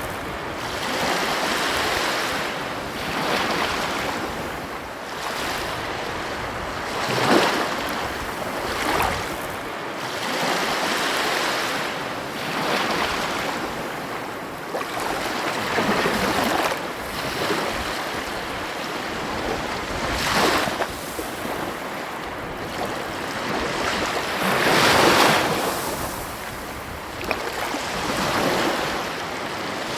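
Ocean surf: waves breaking and washing up on a beach, swelling and falling back in irregular surges a few seconds apart, the biggest about seven seconds in and again near the twenty-five second mark.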